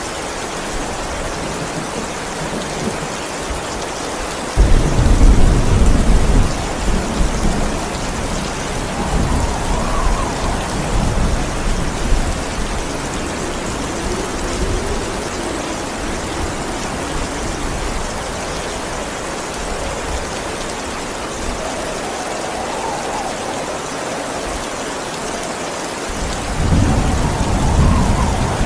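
Steady heavy rain with thunder: a sudden loud thunderclap about five seconds in that rumbles on for several seconds, and another roll of thunder swelling near the end.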